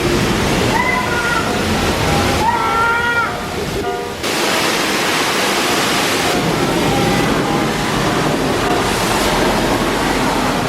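Water spraying hard and steadily as a dirt bike is washed down: a loud, even hiss with small dips in level.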